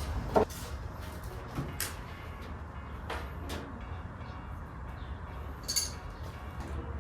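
A few sharp separate clicks and knocks over a steady low hum, the loudest near the start and a bright one near the end.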